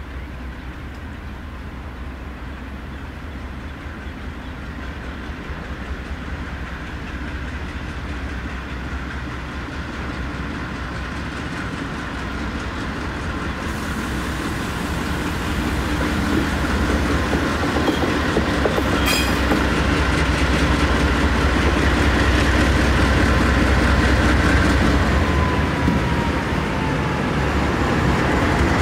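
Norfolk Southern freight train led by diesel locomotives approaching and passing close by. Its engine rumble grows steadily louder through the first half and then stays loud, with one brief sharp clank a little after halfway.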